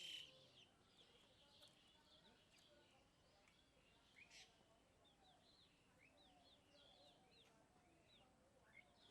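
Small birds chirping faintly in many short, quick notes, with one slightly louder call about four seconds in.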